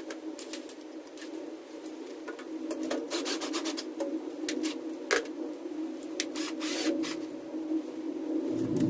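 Scraping and clicking of hand work on a battery module's parts, with one sharp click about five seconds in, over a steady droning hum; a deeper hum comes in near the end.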